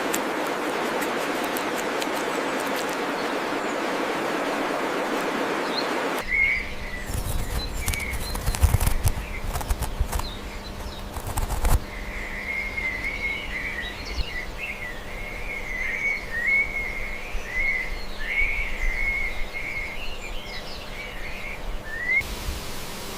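A steady rushing noise for about six seconds. It then gives way to low thumps and rumble, and a long run of quick, wavering bird chirps.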